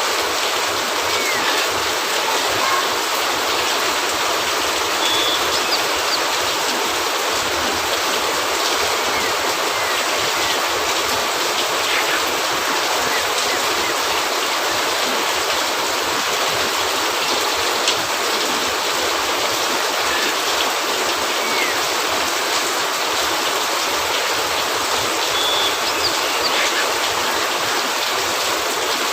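Steady rain falling on a cabin roof: an even, unbroken hiss, with a few faint ticks here and there.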